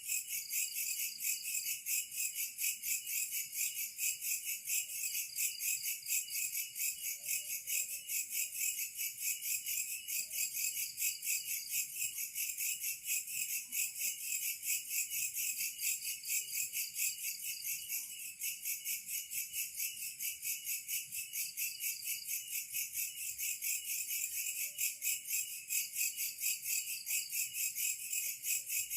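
Chorus of insects such as crickets, a steady high-pitched trill pulsing several times a second.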